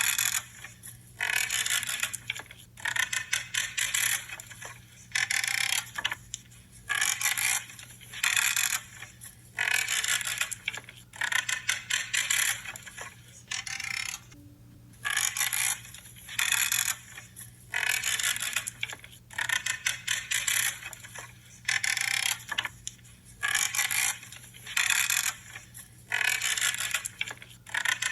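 Hand pruning shears cutting through small branches over and over, each cut a short crackling creak of wood giving under the blades. The cuts come about once a second, with a short pause near the middle.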